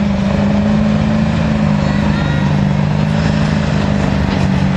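2001 Ford F-250 pickup's engine running hard under full load as it pulls a weight sled down the track, a loud steady drone.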